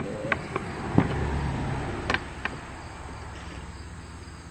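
A handful of light knocks and handling bumps, the loudest about a second in, over steady cricket chirping.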